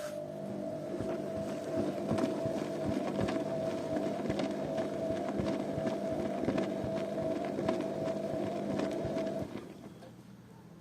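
Zanussi washing machine's drum turning in one direction during a wash, with a steady motor whine over a rushing, clattering tumble of wet laundry and water. The drum stops near the end, leaving a low hum.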